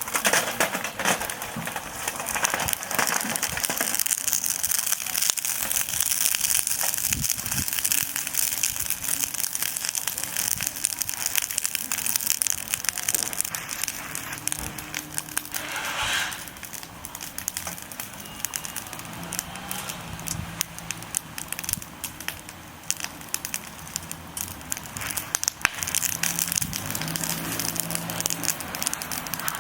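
Charcoal fire crackling and popping in a chimney starter: a continuous dense crackle of sharp pops over a hiss.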